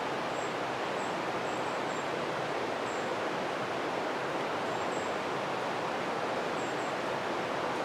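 A swift-running creek: a steady, even rush of water.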